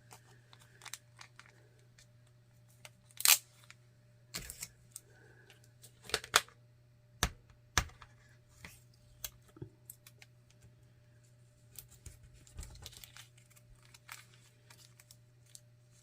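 Scattered clicks, taps and brief rustles of small plastic bags and containers of diamond-painting drills being handled and sorted, a few sharper clicks among them, over a steady low hum.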